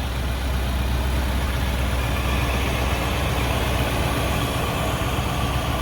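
The 4.5-litre V8 of a 1972 Mercedes-Benz 300SEL 4.5 idling steadily.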